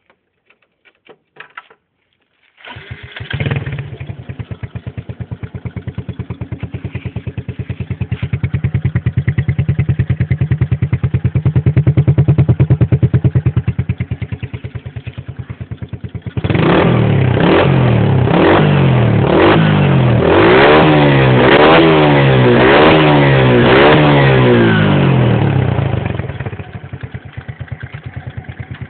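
Modenas Kriss 115 motorcycle's single-cylinder four-stroke engine starting after a few clicks, idling, then revved repeatedly in quick rising-and-falling throttle blips before settling back to idle near the end.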